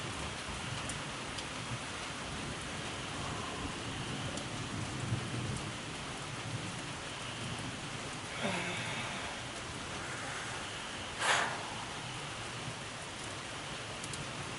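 Steady rain falling, with a low rumble of thunder around the middle. A brief swishing noise comes about eight seconds in, and a short, louder noise about eleven seconds in.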